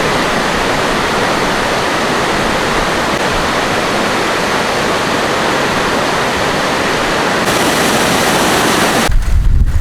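Steady, loud rush of fast-flowing water, an even roar with no distinct notes. About nine seconds in it cuts off abruptly and gives way to a low, uneven rumble.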